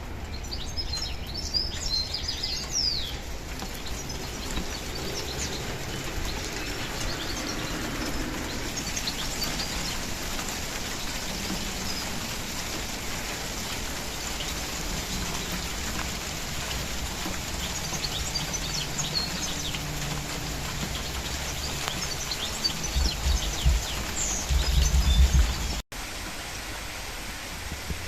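Steady rainfall with birds chirping now and then. Low rumbling thumps come in near the end, then the sound drops out for an instant.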